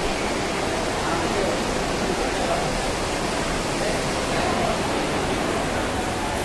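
Heavy rain pouring down in a steady rush, with people's voices murmuring underneath.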